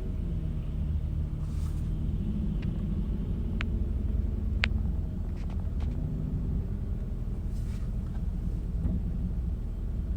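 Low, steady vehicle rumble with a hum that wavers in pitch. A few sharp ticks come near the middle.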